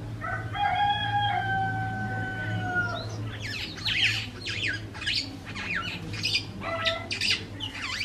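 Birds calling: a long, held, pitched call lasting about two and a half seconds, then a rapid run of short chirps that sweep downward in pitch, with another brief held note near the end. A low steady hum runs underneath.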